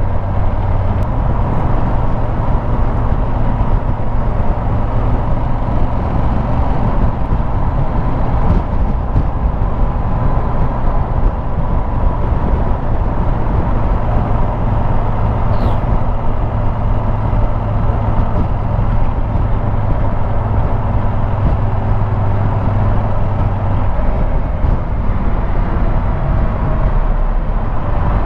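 Motorcycle being ridden at a steady pace: the engine running under a constant wash of wind and road noise.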